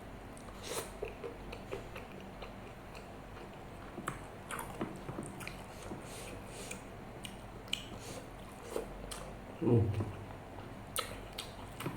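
Close-up mouth sounds of a person chewing and biting a mouthful of rice mixed with martabak, with many small wet clicks and smacks. There is a louder low sound from the mouth or throat just before the end.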